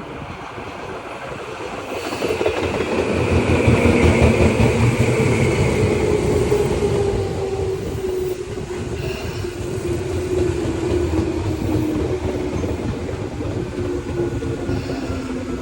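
Tobu 10000 series electric train running past: it grows louder over the first few seconds, then runs on loud with wheel clatter and a motor whine that slowly falls in pitch.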